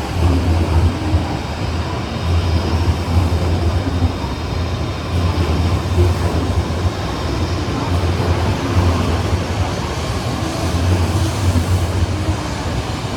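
Shinkansen train running at a station platform: a steady, loud rumble with a dense wash of noise above it.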